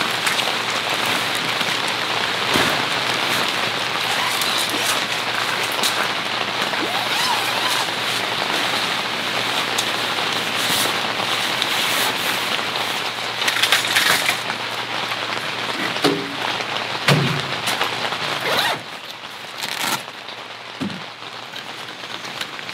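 Steady rain hissing down on and around a nylon tent, with a few short knocks and rustles from handling the tent. About three-quarters of the way through, the rain drops to a softer patter.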